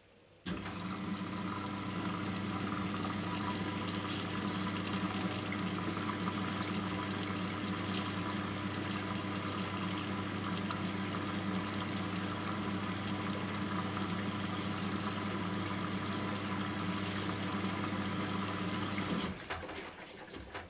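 A Bosch appliance moving water, with a steady electric hum over the sound of rushing water. It starts suddenly about half a second in and cuts off just before the end.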